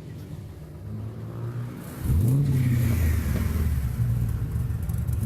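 Supercharged Chevrolet LS2 V8 starting up about two seconds in: it catches, flares up in revs and drops back, then settles into a loud, steady cold idle.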